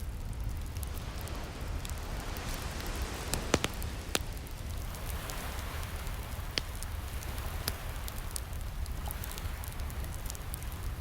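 Wood fire crackling, with a few sharp pops, over a steady wash of ocean waves that swells and ebbs.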